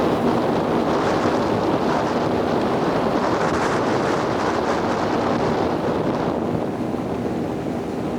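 Wind buffeting the microphone and water rushing past a moving boat, with a low steady hum underneath. The hiss eases a little about six seconds in.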